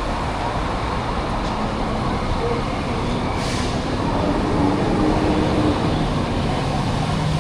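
Steady wind and street traffic noise heard while riding an e-bike through city streets, with a brief hiss about three and a half seconds in.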